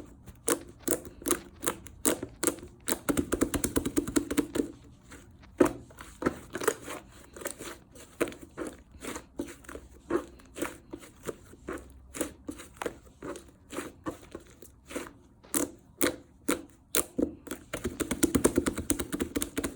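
Slime being squeezed and stretched by hand, giving irregular sticky clicks and pops, with quick runs of crackling pops about three seconds in and again near the end.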